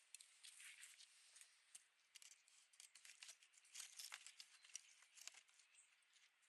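Faint, irregular dry crackling and rustling: many sharp little clicks in quick uneven succession, busiest around the middle.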